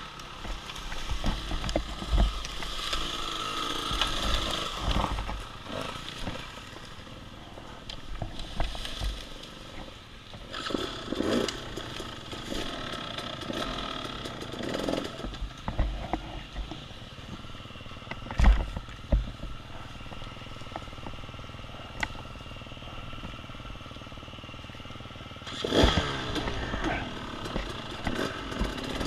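Dirt bike engine running while the bike is ridden over rough woods trail, with sharp knocks and rattles from the bike over the ground, the loudest about two-thirds of the way in and near the end.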